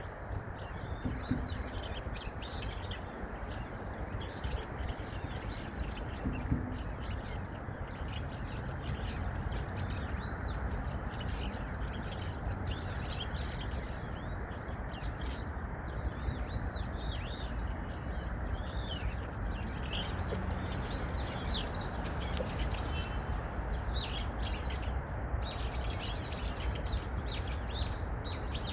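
Several small songbirds chirping and calling busily, a dense stream of short high chirps, over steady background noise.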